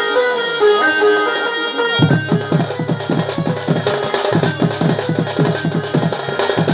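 Sambalpuri folk music for a danda dance: a melody plays alone at first, then drums come in about two seconds in with quick, even strokes under it.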